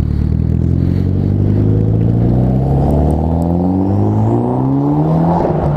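Nissan Altima coupe's 2.5-litre four-cylinder engine being revved, its pitch climbing steadily for about five seconds before the throttle is released near the end. The engine sounds like a 3.5 V6, though it is the 2.5.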